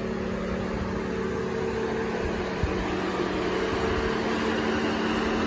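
Steady mechanical hum of an idling pickup truck, with a low drone and an even fan-like rush from its cooling fan, slowly getting louder.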